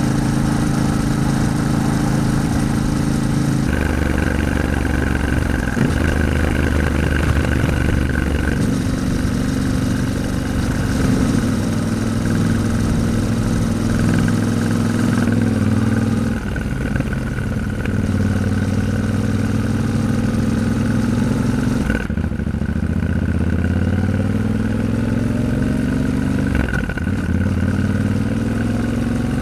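Yamaha Ténéré 700's parallel-twin engine running on the move, its pitch dropping and rising in steps several times as the rider changes gears, with a long rising pull under acceleration about two-thirds through.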